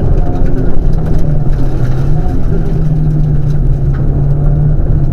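Rally car engine running under load at speed. Its note holds steady and steps up in pitch about a second and a half in, over road noise.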